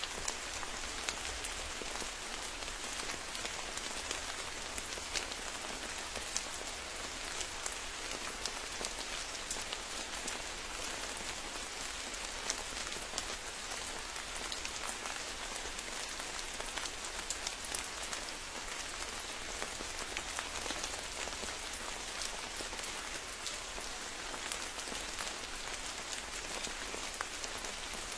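Steady rain falling, a dense even hiss with many individual drops pattering.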